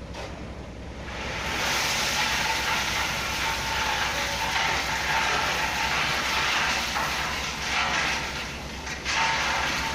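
Hyundai dump truck working: its diesel engine runs with a steady low rumble under a loud rushing, hissing noise that builds about a second and a half in and drops away briefly near the end.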